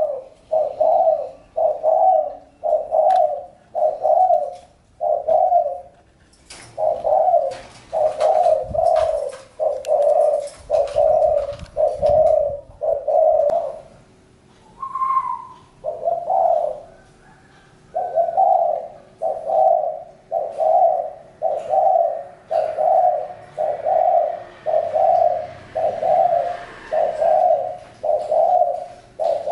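A spotted dove cooing in a long, even series of low coos, about one and a half a second, breaking off briefly twice.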